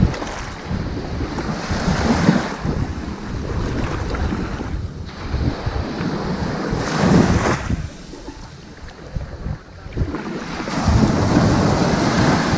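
Ocean waves breaking and washing up onto a sandy beach, a continuous rushing surf that swells with each wave: three surges, about two, seven and eleven seconds in, with a quieter lull between the last two.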